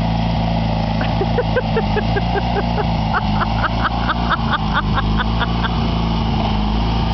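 Small engine running steadily at a constant speed. From about one to six seconds in, a rapid string of short, high chirps sounds over it, about four to five a second.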